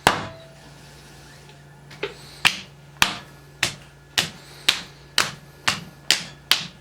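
A sharp strike, then after a pause a regular run of about ten sharp knocks, roughly two a second, each with a brief ringing tail, over a faint steady hum.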